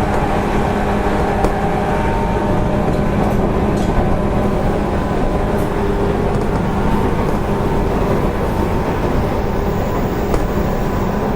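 JR East 185 series electric train motor car running at a steady speed: a constant hum from the traction motors and gearing over rolling wheel-on-rail noise, with a few faint clicks.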